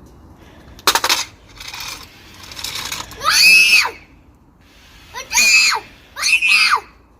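A sharp click and a couple of short rustling noises, then three loud high-pitched squeals that each rise and fall in pitch.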